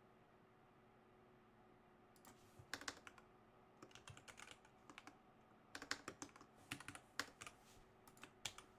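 Typing on a computer keyboard: irregular bursts of keystrokes starting about two seconds in, faint against a quiet room.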